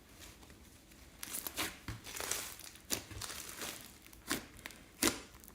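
Slime being handled and pressed, with irregular crinkling and crackling strokes, the loudest about five seconds in.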